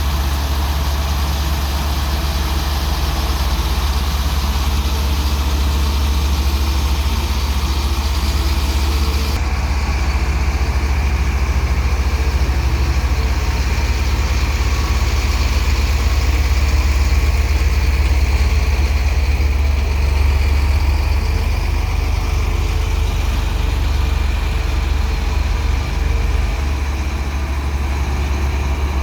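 Diesel engine of a Daewoo 170W-3 wheeled excavator running steadily, with a strong deep hum.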